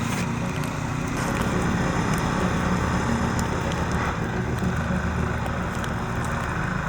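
An engine running steadily, with a steady hiss over it.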